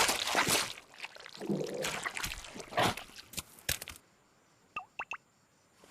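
Cartoon sound effects of wet splashing and squelching for about four seconds, then near silence broken by three short high chirps near the end.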